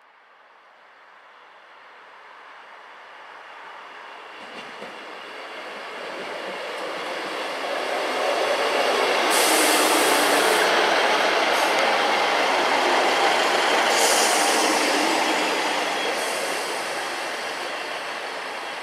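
Northern Class 158 diesel multiple unit arriving at the platform: the rumble of its wheels and engines builds steadily as it approaches, then eases as it slows. Twice around the middle there is a short spell of high-pitched hiss.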